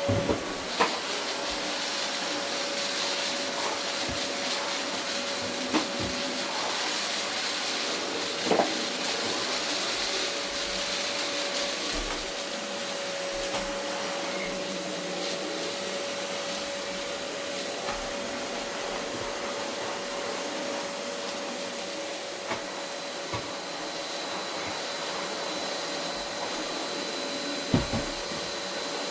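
Vacuum cleaner running steadily over carpet, a continuous whoosh with a steady hum, broken by a few brief knocks, the loudest about a second in and near the end.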